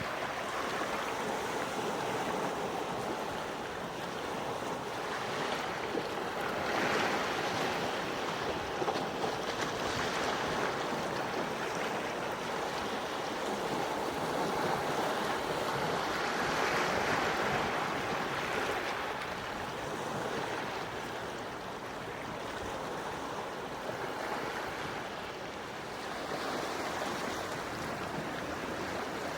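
Calm sea waves washing onto the shore, a steady wash that swells and eases every few seconds.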